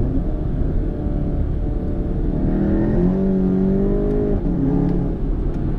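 Volkswagen MK7 GTI's turbocharged 2.0-litre four-cylinder with a catless 3-inch downpipe, accelerating under load as heard inside the cabin. The engine note rises over about two seconds, holds, then drops back about four and a half seconds in.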